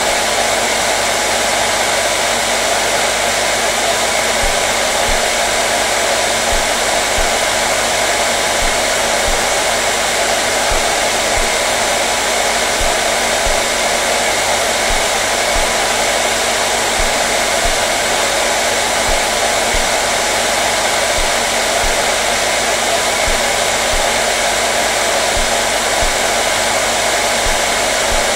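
Hair dryer running steadily, a constant rushing of blown air over the motor's even hum.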